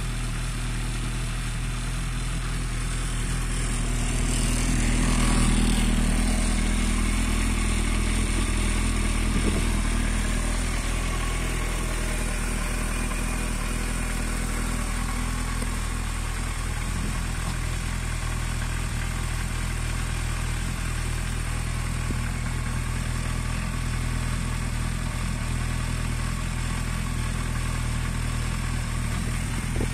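Suzuki Bandit 1250's inline-four engine idling steadily on the stand. About five seconds in, a broader whoosh swells the sound for a few seconds and then fades.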